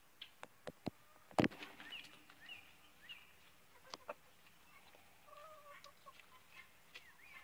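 Faint chickens clucking and chirping, with several sharp clicks or knocks; the loudest knock comes about a second and a half in.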